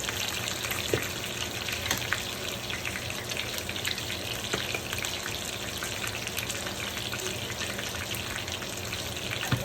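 Onion, ginger and garlic sautéing in olive oil in a pan: a steady sizzle with fine crackling, and a light knock about a second in.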